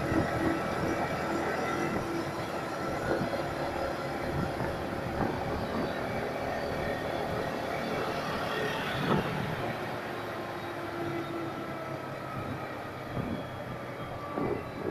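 Yamaha MT-15 V2's single-cylinder 155 cc engine running steadily on the move, shifting up from fourth to fifth gear, with wind rushing over the microphone.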